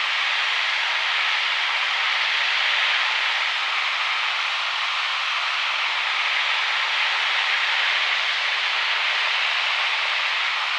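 Steady rushing cabin noise of a single-engine Grumman light airplane in flight: engine and airflow blended into an even hiss, with no tone standing out.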